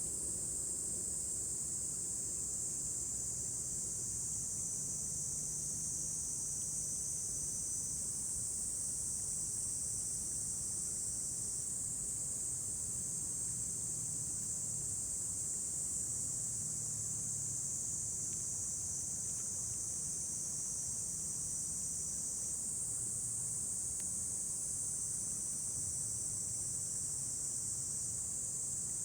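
Steady, high-pitched chorus of summer insects that never stops, with a faint low rumble underneath.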